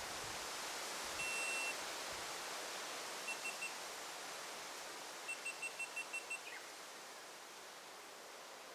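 Steady rushing hiss of forest ambience. Over it a high, pure beeping tone sounds three times: once held for about half a second, then three quick pips, then a run of seven quick pips ending in a short falling slide.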